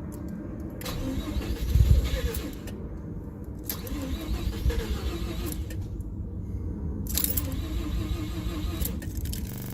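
Mazda RX-7 FC3S's 13B rotary engine cranking over on the starter without firing up, steady and rhythmic, loudest about two seconds in: a no-start condition.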